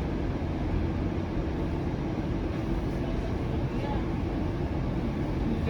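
Steady low rumble inside the cabin of a Flexity Outlook low-floor streetcar running along its track.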